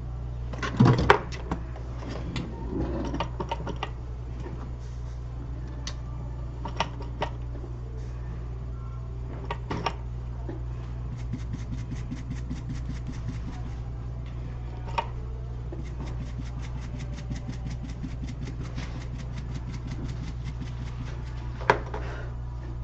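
Steady low hum of bench repair equipment, with scattered small clicks of tools on the board and a run of rapid, even ticks, about five a second, through the middle.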